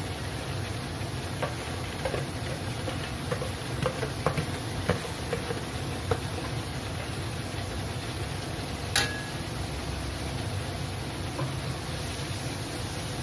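Prawns, sliced red chillies and onion sizzling in oil in a metal wok: a steady hiss with a run of light clicks and pops in the first half. About nine seconds in comes one sharper click with a brief ring.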